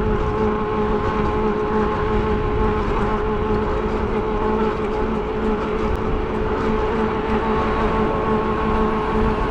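An e-bike's electric drive motor whines steadily at cruising speed over a loud rush of wind and tyre noise.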